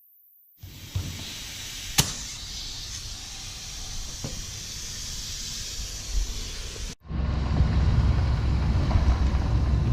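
A steady hiss with a sharp click about two seconds in. After an abrupt cut, a truck engine runs with a steady low rumble.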